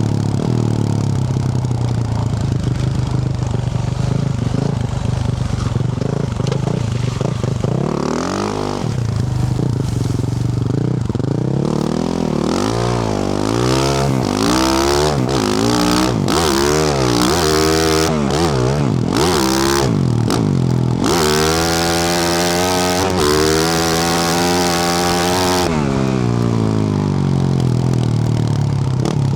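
A Yamaha YZ450F four-stroke single-cylinder dirt bike engine with a Yoshimura RS-12 exhaust under way. It runs steadily at first, then through the middle is revved up and down over and over with rising and falling pitch, with chassis and gravel clatter, before settling back to a steady low note near the end.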